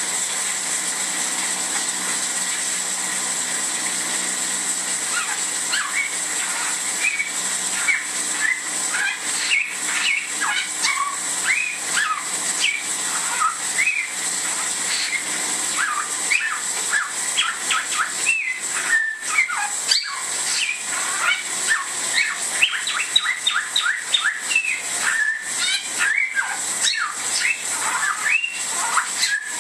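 Caged bare-throated whistler singing: a rapid run of short, sharp whistled notes that starts a few seconds in and comes thicker in the second half, over a steady hiss.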